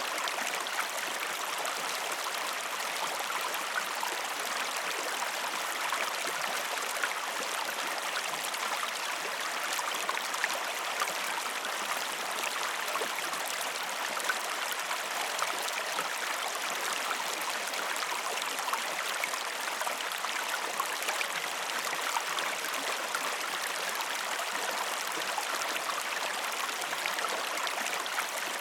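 Steady rushing and trickling of flowing water, like a stream, with small splashy ticks throughout.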